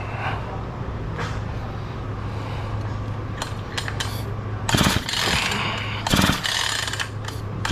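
Husqvarna 445 two-stroke chainsaw's recoil starter pulled over about three times in the second half, the engine cranking without starting while a spark tester checks whether the ignition coil fires. A steady low hum runs underneath.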